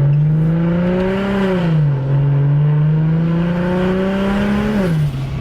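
BMW 335i's single-turbo N54 inline-six under light throttle, its note climbing steadily with the revs. The revs drop quickly about a second and a half in, as at an upshift, then climb again and drop again near the end.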